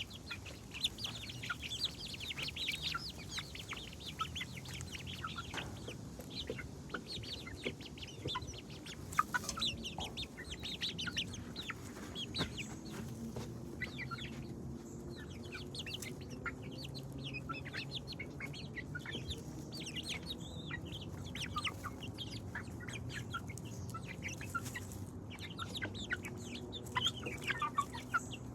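Several chickens clucking, with many short calls overlapping throughout, over a low steady background hum.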